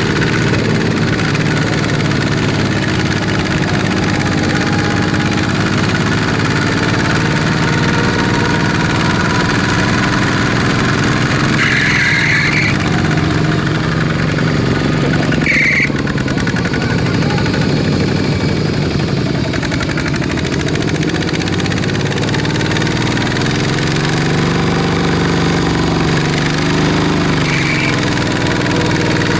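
Small tractor engine running steadily, its pitch dipping and rising a few times as it works. A few short, higher-pitched sounds come over it, about twelve seconds in, near the middle and near the end.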